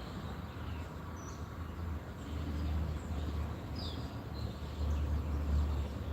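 A few short, high bird chirps over a steady low rumble that grows louder partway through.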